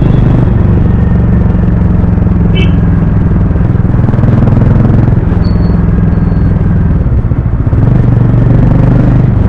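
Harley-Davidson X440's 440 cc single-cylinder engine and exhaust running loudly under way, its steady low note shifting in pitch a few times, with a brief drop in level about seven and a half seconds in.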